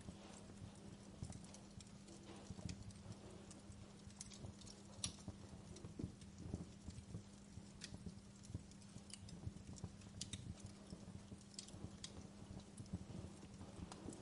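Wood fire crackling: irregular sharp pops and snaps, several a second at times, over a low rumble of burning logs and a faint steady low hum.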